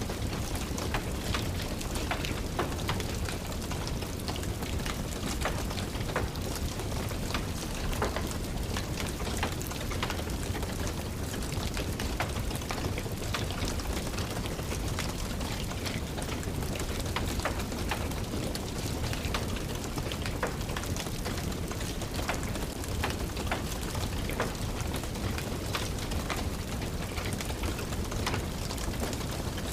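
Steady rain mixed with a crackling wood fire: an even hiss and low rumble, dotted with frequent small, sharp pops and ticks.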